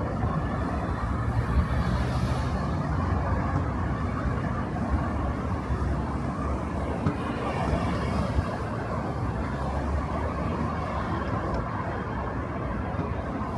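Road traffic on a city street: a steady mix of engine hum and tyre noise, with vehicles swelling past about two seconds in and again near the eight-second mark.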